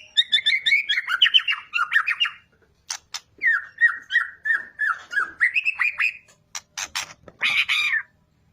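White-rumped shama singing: fast runs of repeated whistled notes, a string of sharp clicks around the middle, and a harsh rasping burst near the end.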